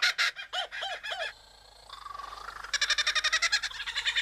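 Superb lyrebird singing a mimicked song. It opens with fast rattling chatter, then gives a few rising-and-falling whistled notes. After a brief pause comes a rising note, then fast kookaburra-like chatter again from about the middle on.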